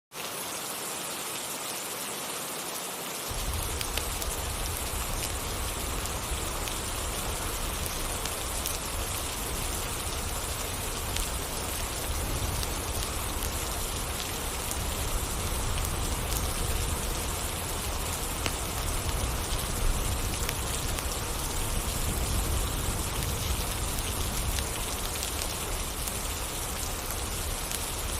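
Steady rain falling, an even hiss of many drops, with a deep low rumble joining underneath about three seconds in.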